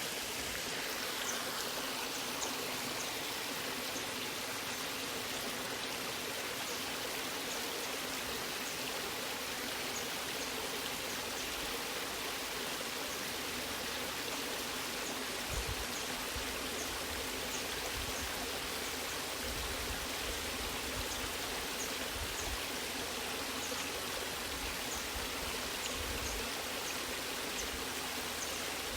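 Waterfall rushing steadily, an even hiss of falling and flowing water, with a few soft low thumps in the second half.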